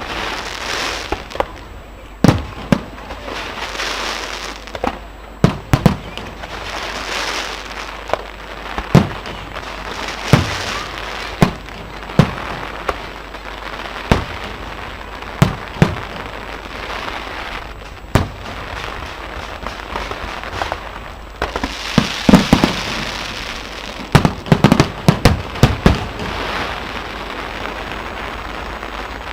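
Fireworks display: an irregular series of sharp bangs from bursting shells, with stretches of crackling hiss between them. The bangs come thickest a little past two-thirds of the way through.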